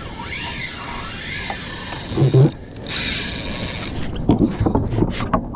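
Fishing reel working under the load of a hooked fish: a mechanical whirring and ratcheting whose pitch rises and falls, with a few sharp clicks and knocks near the end.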